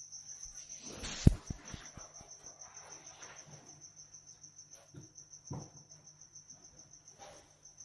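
Cricket chirping in a steady, rapidly pulsing high trill, with one sharp knock about a second in followed by a few softer knocks, and another knock past halfway.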